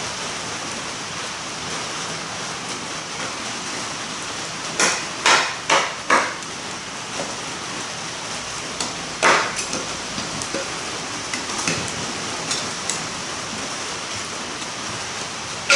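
Steady rain hiss, broken by four sharp knocks in quick succession about five seconds in, one more a few seconds later, and a few faint clicks after that.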